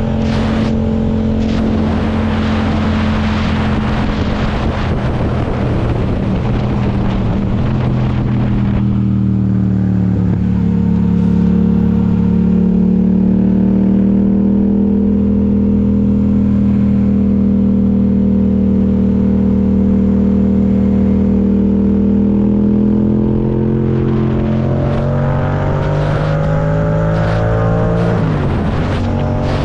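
Motorcycle engine running at fairly steady revs. Its pitch drops slightly about nine seconds in and holds smooth and even for about fifteen seconds, then climbs again near the end, with rougher noise around it at the start and end.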